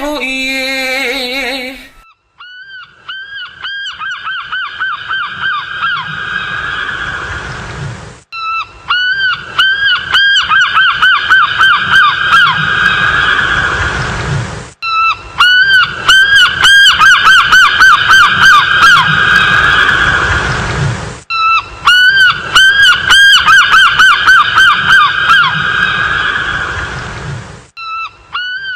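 Rapid series of nasal, honking animal calls over a low rumble, coming in four near-identical stretches of about six seconds each with short breaks between them, as if looped. The end of a sung song is heard in the first two seconds.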